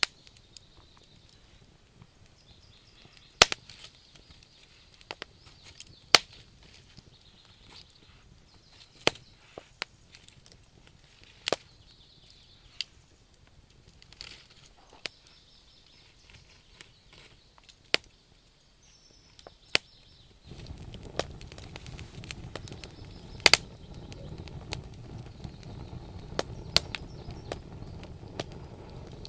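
Wood fire crackling, with irregular sharp pops of burning logs, some loud. Faint bird chirps sound in the background, and about twenty seconds in a steady low rushing noise starts abruptly under the crackle.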